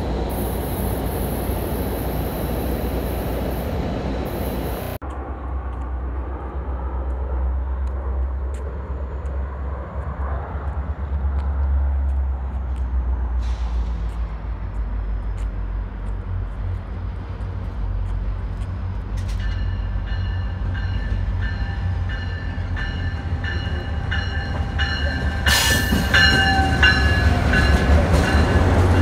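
Caltrain diesel commuter train arriving: a low diesel rumble throughout, with steady high squealing tones from the slowing train setting in and growing louder as the locomotive and bilevel cars draw alongside near the end. It opens with a steady hiss beside a standing locomotive that cuts off about five seconds in.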